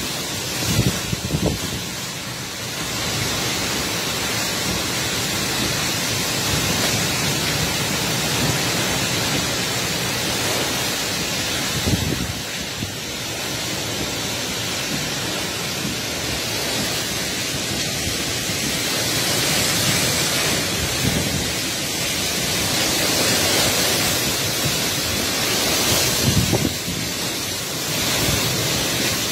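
Storm wind blowing hard and steadily, with a few gusts thumping on the microphone.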